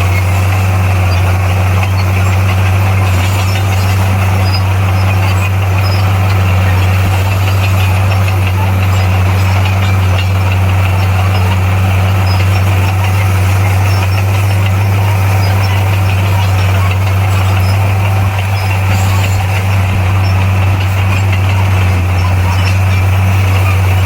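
Bulldozer's diesel engine running at a constant speed: a loud, steady low hum that holds one pitch throughout, with no revving up or down.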